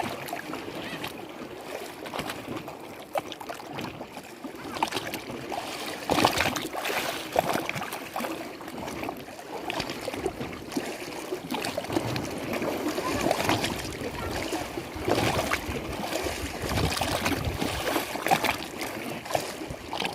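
Lake water lapping and sloshing in irregular small waves, with a louder splash every second or two.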